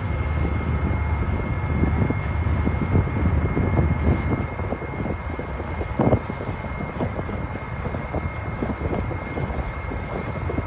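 Harbour ferry's engine running with a low drone and a steady high whine, the drone easing about halfway through, while wind buffets the microphone in gusts.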